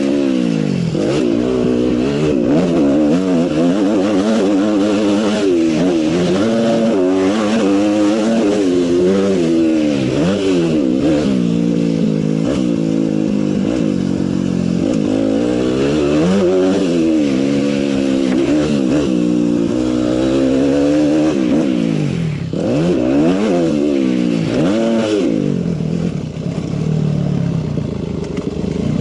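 Motocross motorcycle engines revving hard and easing off over and over, the pitch rising and falling every second or two with throttle and gear changes, more than one bike at times.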